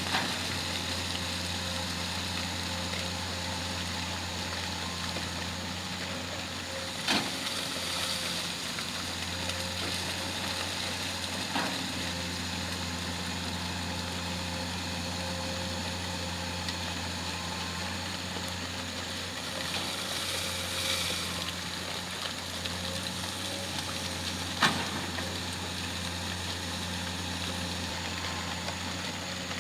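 Excavator's diesel engine running steadily at a low hum, with three short sharp knocks spread through.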